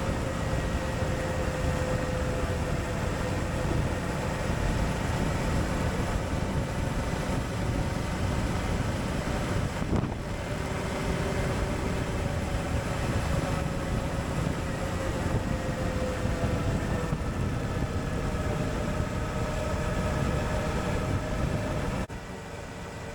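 Suzuki V-Strom 1050XT's V-twin engine running steadily at riding speed, with heavy wind rush over the microphone. The engine note drifts slowly lower, breaks briefly about ten seconds in, and the whole sound drops quieter near the end.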